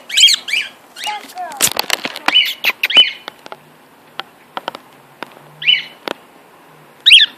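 Pet cockatiel giving short, bending chirps in several bouts, with many sharp clicks and taps in between.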